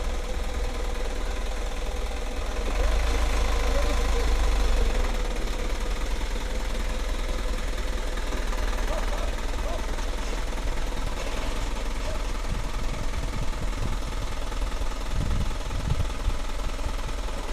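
Dump truck's engine running steadily while the truck tips its load of sand with the hydraulic hoist, louder for a couple of seconds about three seconds in.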